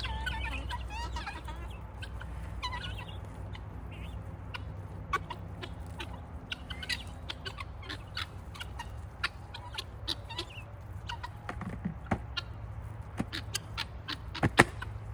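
Guinea fowl calling with short, wavering chattering calls in the first few seconds, followed by scattered sharp clicks and knocks, the loudest near the end.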